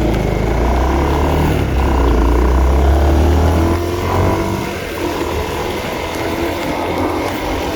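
Honda CB150R's single-cylinder engine running as the motorcycle is ridden, with a strong low drone that eases off about four seconds in, as if the throttle is closed, leaving a lower steady rumble.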